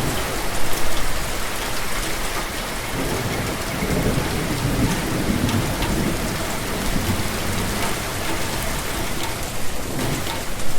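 Steady rain falling and pattering on surfaces, with a low rumble of thunder swelling and fading about halfway through.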